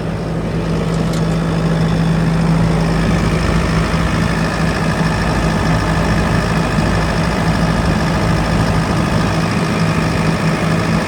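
Kubota SVL65-2 skid steer's diesel engine idling steadily, with a strong low hum. It runs clean, with no blow-by.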